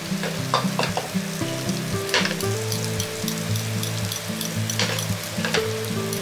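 Chopped long leek, garlic, ginger and dried chili sizzling in scallion oil in a frying pan, a steady frying hiss with several sharp spits of oil.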